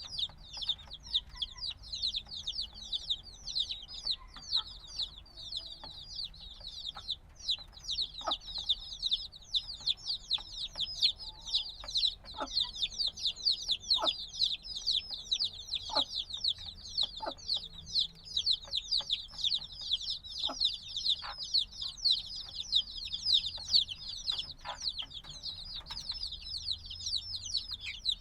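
A brood of newly hatched chicks chirping continuously: many overlapping high-pitched peeps, each falling in pitch, with a few faint clicks scattered among them.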